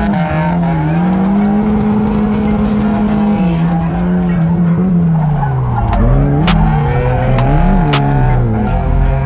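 Drift car's engine at high revs, heard from inside the cockpit, with tyres squealing as the car slides sideways. The engine pitch holds high, sags about halfway through, then climbs and drops quickly several times as the throttle is worked.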